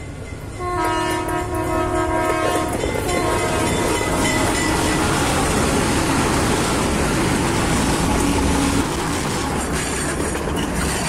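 Train horn sounding twice, a chord of several tones held for about two seconds and then a shorter blast. It is followed by the steady rumble of a passing train with rapid wheel-on-rail clicking near the end.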